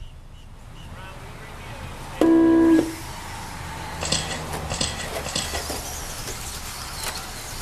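An electronic race-start tone sounds once, loud and steady for a little over half a second, about two seconds in. Then electric RC stadium trucks pull away, a steady hiss of motors and tyres with higher whines coming and going.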